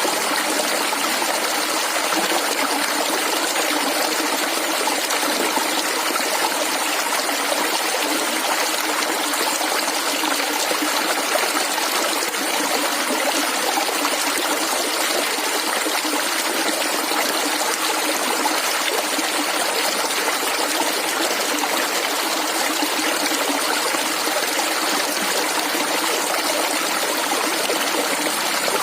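Gurgling stream of flowing water, a steady even rush and trickle with no breaks.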